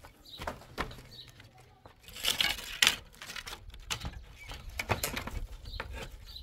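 Irregular knocks and clatter, with a louder scraping, rustling burst about two seconds in.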